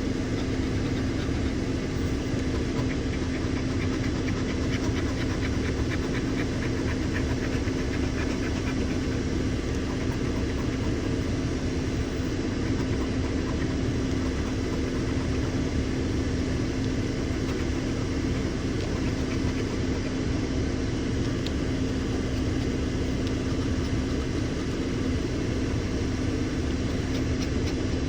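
A steady mechanical drone with one constant humming tone, unchanging throughout.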